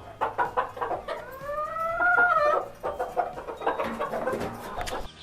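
Chickens clucking in a quick, busy run, with one long drawn-out call about a second in that rises and then falls in pitch.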